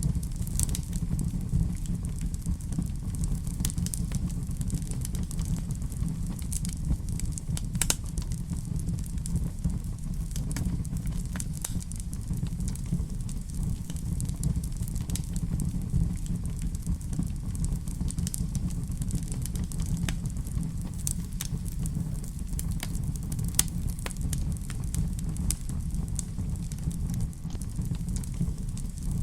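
Wood fire burning in a fireplace: a steady low roar of flames with frequent sharp crackles and pops scattered throughout.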